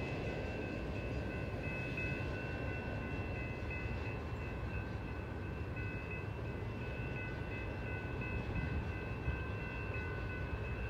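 Steady low rumble of a train running past out of view, with several thin, high, steady whining tones held over it.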